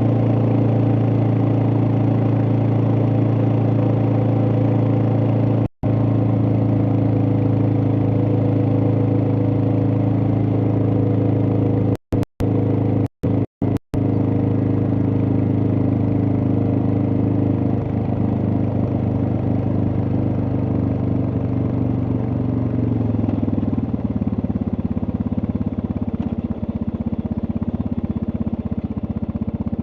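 Suzuki DR650's single-cylinder engine running at steady revs, then dropping to lower revs about three-quarters of the way through. The sound cuts out completely for a split second a few times.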